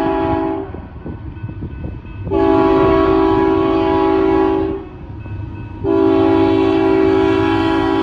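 Union Pacific freight locomotive's multi-chime air horn blowing long blasts for a grade crossing: one ending shortly after the start, another from about two to five seconds, and a third starting about six seconds in. The low rumble of the moving train fills the gaps between the blasts.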